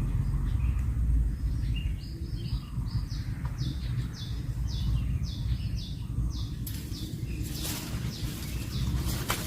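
A bird chirping in a series of short, high, repeated notes, about two a second, over a steady low background rumble; near the end, short scratchy sounds take over.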